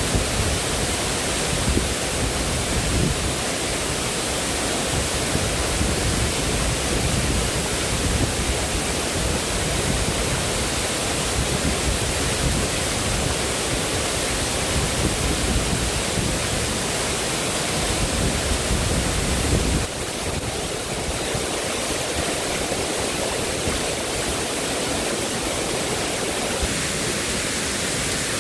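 Steady, loud rushing of water, with its deep rumble dropping away about twenty seconds in.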